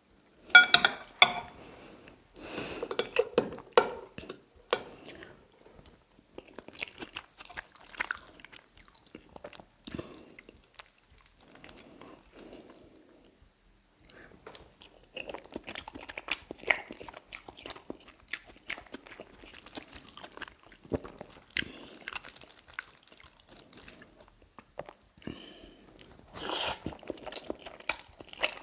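Close-up chewing of creamy tagliatelle: wet mouth sounds and small clicks, coming in irregular spells with short pauses between bites.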